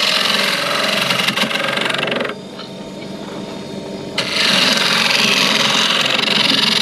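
A wood lathe spinning while a turning tool cuts the workpiece, making a loud, rough hiss over a steady motor hum. The cut eases off a little after two seconds in and bites again at about four seconds in.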